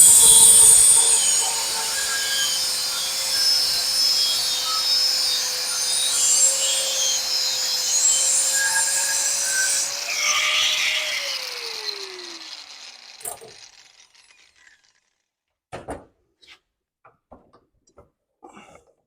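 Angle grinder with a cutoff wheel cutting thin steel panel: a steady motor whine under a hissing grind. About eleven seconds in it is switched off and the whine falls away as the wheel spins down, followed by a few light taps.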